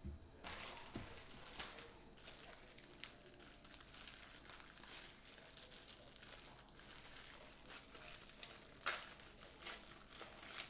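Faint crinkling and rustling of food packaging being handled, with scattered small clicks and a couple of sharper crackles near the end.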